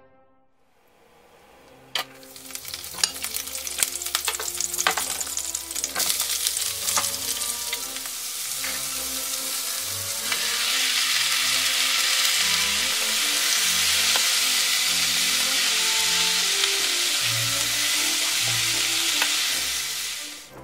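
Sliced onion sizzling in oil in a nonstick frying pan, with sharp clicks and scrapes as it is stirred. About ten seconds in, blanched mushrooms are tipped in and the sizzle turns louder and steadier.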